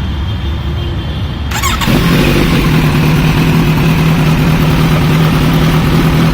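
Kawasaki Z900's inline-four engine idling through an Akrapovic full-system exhaust. About two seconds in it grows louder and settles into a steady, even idle note.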